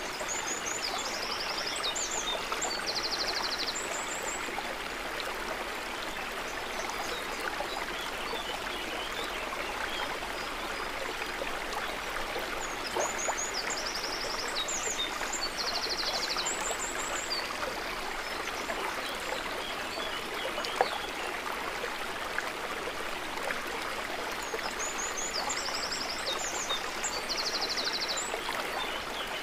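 Steady trickling, gently gurgling water, like a small stream. A short bird song phrase of chirps and a trill repeats three times, about every thirteen seconds, with one sharp click about two-thirds of the way through.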